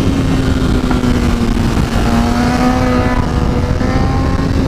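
Kawasaki ZX-10R inline-four sportbike engine heard onboard on track, pulling at fairly steady revs through a corner in second gear and slowly rising toward the end. Heavy wind rush on the microphone underneath.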